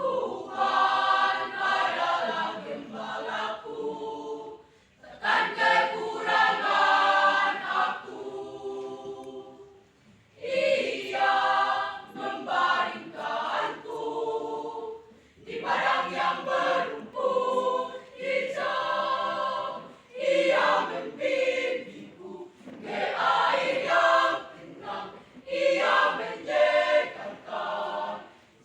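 A school choir singing in several voice parts, in phrases of about four to five seconds with short breaks between them.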